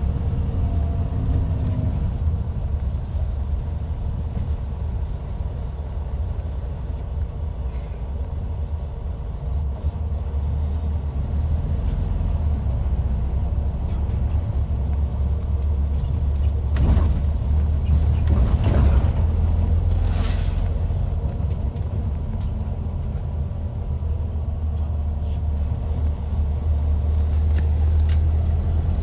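Hyundai D6CC Powertec 380 straight-six diesel of a Hyundai Universe Comfort coach running with a steady deep drone that slowly swells and eases. A few brief rushes of noise come about two-thirds of the way through.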